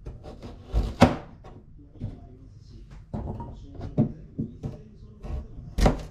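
Irregular wooden knocks and clatter of kitchen work. The loudest knocks come about a second in and near the end.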